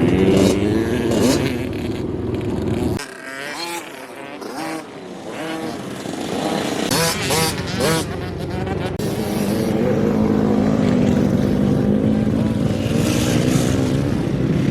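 Dirt bike engines running, cutting off abruptly about three seconds in; indistinct voices follow, then an engine running steadily again from about ten seconds in.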